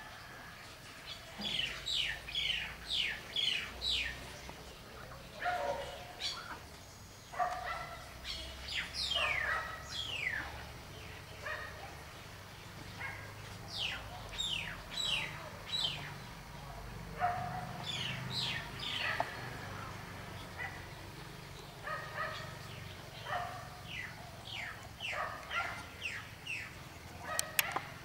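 Birds calling: runs of short, sharp notes that each drop quickly in pitch, coming in bursts of several every few seconds.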